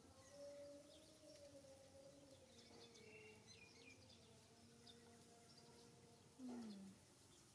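Faint background bird calls: long held notes and a few high chirps. A short low call falling in pitch, about six and a half seconds in, is the loudest sound.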